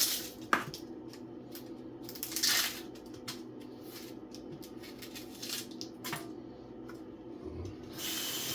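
Kitchen utensils and dishes clinking and knocking a few times over a steady low hum, with a short hiss about two and a half seconds in; a tap starts running near the end.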